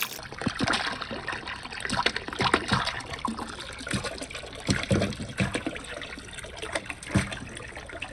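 Water trickling and splashing through a marble-run track, with irregular light clicks and knocks of marbles running along it.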